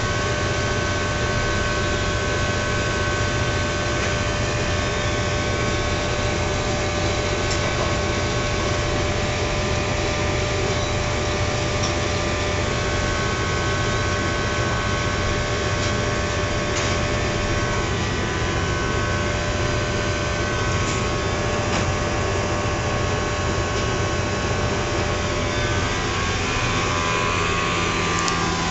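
Blower motor running steadily, a continuous rushing hum with a steady whine over it.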